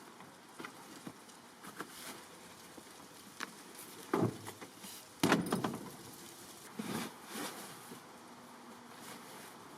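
Assorted clicks, knocks and rattles of things being handled, with two louder clunks about four and five seconds in.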